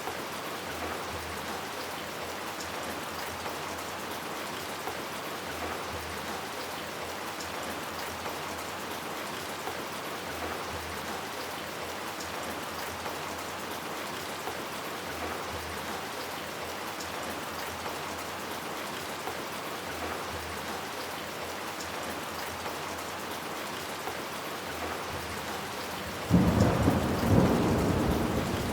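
Steady rain falling, then near the end a sudden loud clap of thunder that rumbles on.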